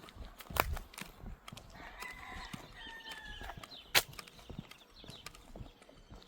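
A rooster crowing: one drawn-out call about two seconds in. Two sharp knocks cut through it, the louder one about four seconds in.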